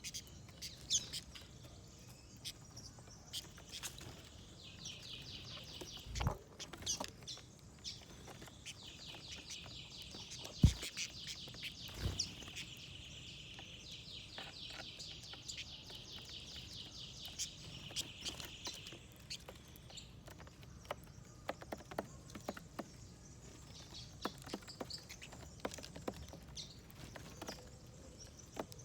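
A small songbird singing a long, fast trill of repeated high notes. Short sharp taps and clicks, typical of birds pecking at seed on a feeding plate, are scattered through it, and a few are louder.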